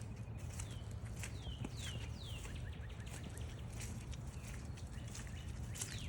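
A songbird calling in short falling whistles, several in a row with a quicker run near the end, over footsteps and a low steady rumble of wind.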